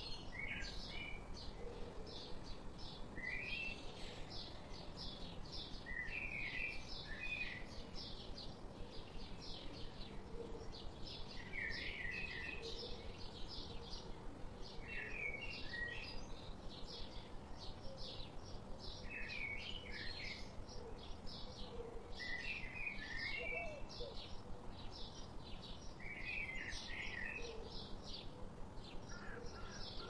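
Birds singing: a steady run of quick, high chirps, about four a second, with a short, lower warbling phrase coming back every three to four seconds.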